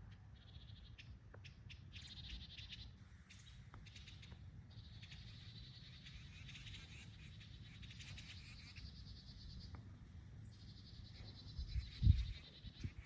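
Small birds making rapid, chattering alarm calls in repeated bouts, mobbing a snake, over a low rumble. A single thump about twelve seconds in is the loudest sound.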